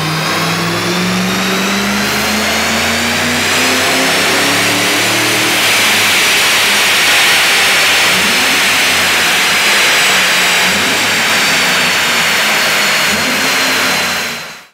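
Supercharged V8 of a 2006 Ford Mustang on a rolling-road dyno, pulling up through the revs at full load, its pitch climbing steadily with a high whine rising alongside. From about six seconds in it holds loud with a rushing noise, then fades out at the very end.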